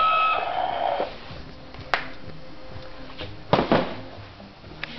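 Toy construction truck's electronic sound effect, a steady beeping tone that stops about a second in, followed by a few clicks and knocks as the toy is handled.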